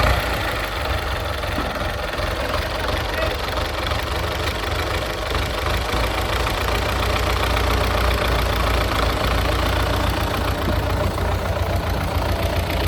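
Tractor engine running steadily at idle just after being started, with a heavy low rumble.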